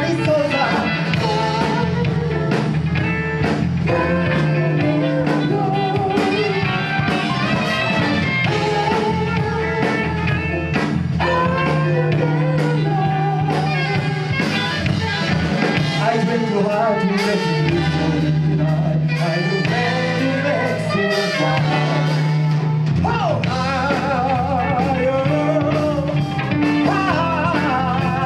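Live band playing a song, with a steady bass line and a wavering lead melody over it.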